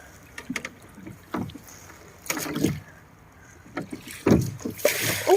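Paddles dipping and splashing in the water in irregular strokes as a small boat is paddled, with some wind on the microphone.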